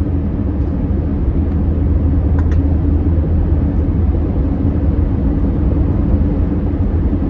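Steady low rumble of a car driving, with a constant hum.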